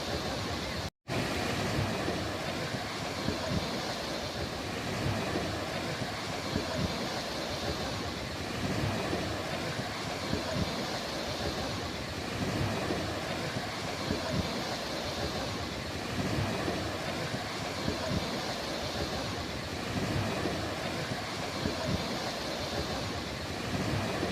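Steady wash of ocean surf on a beach, with an uneven low rumble, cut by a split-second dropout to silence about a second in.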